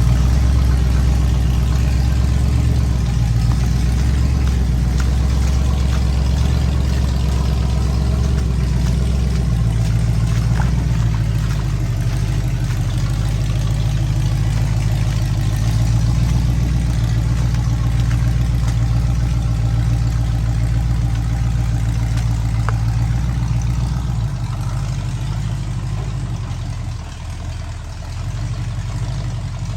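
Ford mud truck's engine running at low revs, mostly steady with small shifts in pitch, dipping briefly in loudness near the end.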